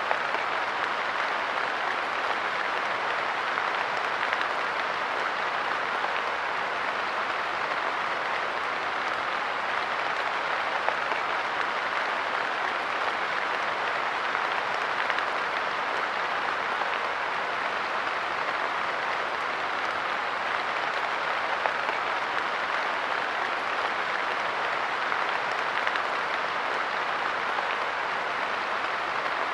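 Light rain falling steadily on a park bench, an even patter with a few sharper drops standing out now and then.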